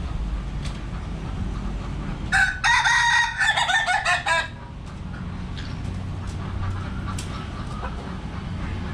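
A rooster crowing once, a single call of about two seconds that starts a couple of seconds in, over a steady low background rumble.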